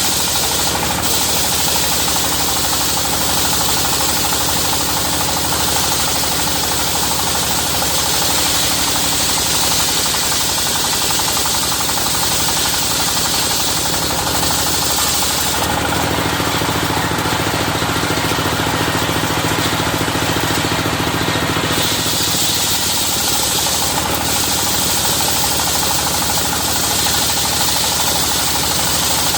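Engine-driven circular-saw sawmill cutting through a dadap log: a steady, rapidly chugging engine note under the hiss of the blade in the wood. The cutting sound shifts about halfway through and again a few seconds later.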